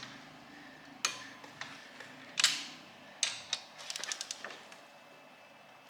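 Sharp metallic clicks and cracks, about one a second, the loudest about two and a half seconds in, as the Lotus engine's cylinder head stretch bolts are broken free with a wrench, over a faint low hum.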